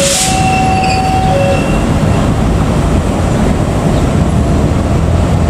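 Passenger train coaches rolling over the rails with a steady rumble. A two-pitch tone alternates high and low for the first second and a half, and a short hiss sounds right at the start. The rumble turns deeper and steadier near the end.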